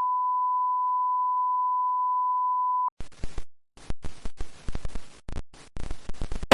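A steady, pure electronic beep tone at about 1 kHz, held for about three seconds and cut off sharply. It is followed by choppy, crackling static-like noise in short irregular bursts with brief silent gaps.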